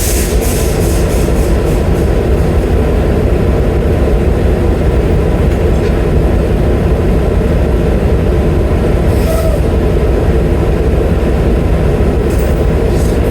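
Semi truck's diesel engine running with a steady, loud rumble heard inside the cab, with short hissing bursts about nine seconds in and again near the end.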